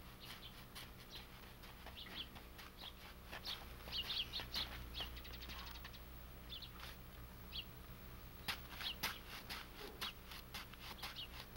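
Birds chirping faintly: short high calls come in scattered clusters, over a few light clicks and a low steady hum.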